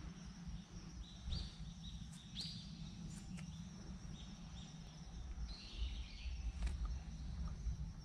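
Small birds calling in the woods: short high chirps with quick upward slides, in a burst about a second in and another near the end, over a steady low rumble and a few light clicks.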